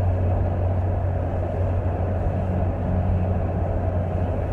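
Steady low rumble of a vehicle, even and unchanging, with no other events.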